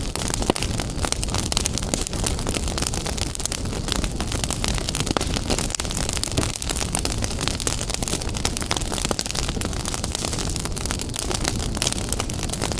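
Wood fire burning in a fireplace: dense, irregular crackling and popping over a steady low rumble of the flames.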